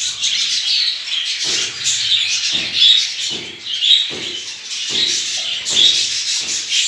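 A flock of caged budgerigars chirping and chattering continuously, with many overlapping high chirps and short lower calls every half second or so.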